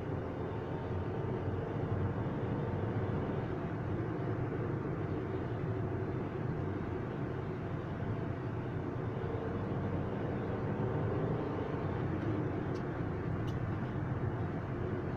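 A vehicle's engine running steadily, with an even drone and no change in speed.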